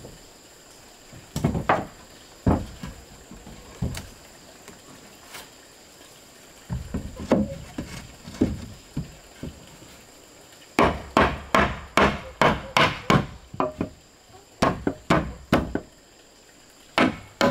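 A tool striking wood: a few scattered knocks, then, past the middle, a quick run of blows at about three a second, with a few more near the end.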